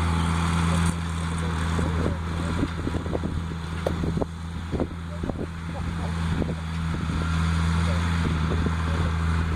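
Case 170 CVX tractor engine running steadily with a low hum while it drives a Welger baler, with scattered short knocks and clicks over it.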